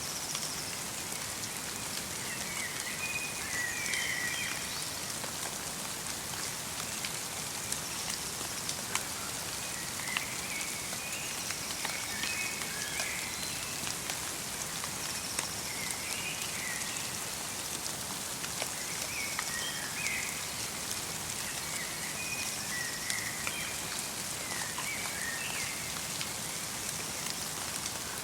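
Light rain falling steadily in a forest, with scattered individual drip ticks. Small birds give short twittering chirps every few seconds.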